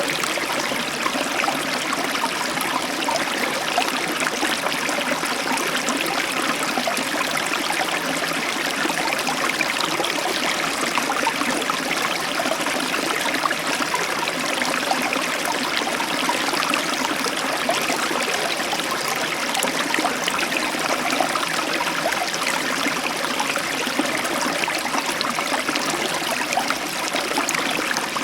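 Heavy tropical downpour: torrential rain falling in a steady, even rush, with no thunder.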